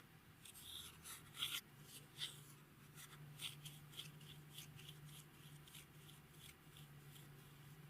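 Clear slime with beads and glitter being worked by hand, giving a run of soft sticky clicks and pops, several a second, over a faint low hum.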